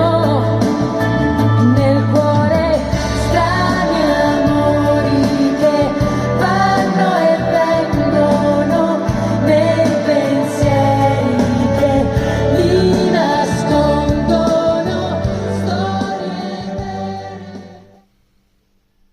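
Pop song with a female singing voice and heavy, stepping bass notes, played through TEAC Reference 300 hi-fi speakers. It fades out and stops about eighteen seconds in.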